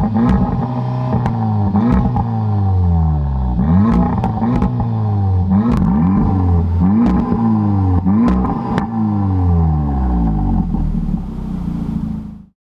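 Audi S3 8V's turbocharged four-cylinder engine through a Milltek exhaust, revved in a series of about seven quick blips, each rising and falling back, with sharp cracks at several of them. It then settles to a steady idle before the sound cuts off suddenly near the end.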